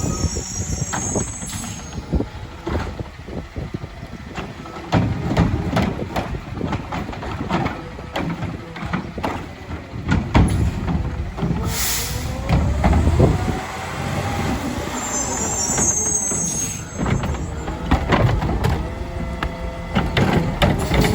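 CNG Autocar ACX garbage truck with a McNeilus Meridian body and Curotto Can cart arm working: engine running with repeated knocks and clatter, a whine that rises in pitch about halfway through, and short air-brake hisses near the start and about three-quarters through.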